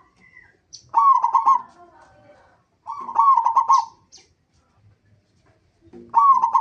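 Zebra dove (local perkutut) cooing: three phrases of quick, bubbling coo notes, about two to three seconds apart, the last beginning near the end.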